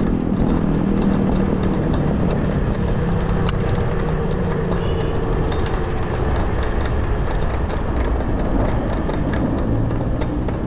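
Steady street-traffic and wind rumble heard while riding an electric bicycle, with a nearby motor vehicle's engine running close by in the first few seconds and then fading.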